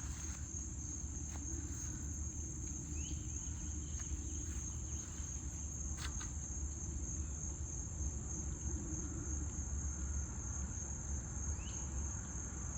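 A steady, high-pitched chorus of insects shrilling without a break over a low rumble, with a sharp click about six seconds in.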